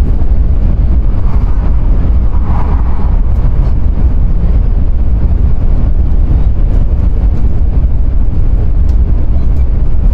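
Running noise inside a Sanyo Shinkansen car: a loud, steady low rumble from the train moving along the track.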